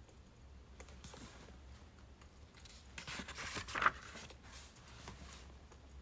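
Birch firewood crackling in a fire: scattered small snaps, with a denser run of crackles about three seconds in ending in one louder pop.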